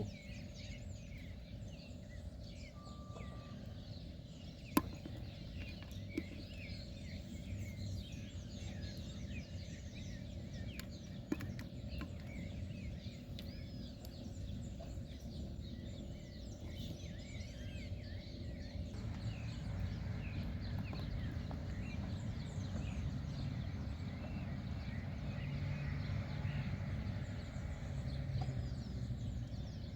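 Outdoor ambience: a steady low rumble with many small bird chirps scattered over it, and a few sharp clicks.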